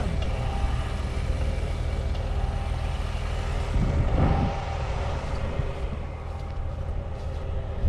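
Off-road 4x4 engine running steadily, with a louder surge about four seconds in.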